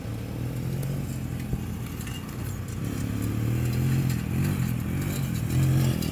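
Small off-road vehicle engine running, its pitch rising and falling with the throttle.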